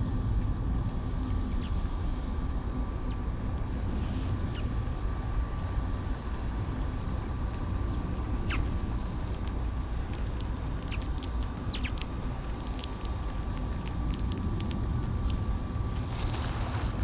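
Birds giving many short, high chirps and calls, scattered irregularly over a steady low rumble and a faint steady whine.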